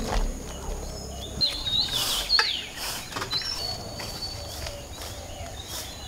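Birds chirping and whistling: a run of short, sliding calls about two seconds in, then one held whistle a little later.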